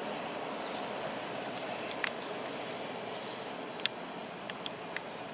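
Small birds chirping at dusk in short, high, repeated notes, louder near the end, over a steady background rumble, with a couple of sharp ticks partway through.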